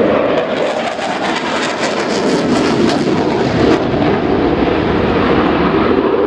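Jet noise from a Panavia Tornado's twin RB199 turbofans during a low display pass: a loud, steady rush, with a run of sharp crackles between about one and a half and four seconds in.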